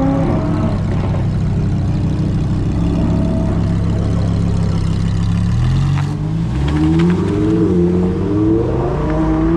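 Car engine running steadily, then revving up in several rising sweeps through the second half, with a few sharp pops among them.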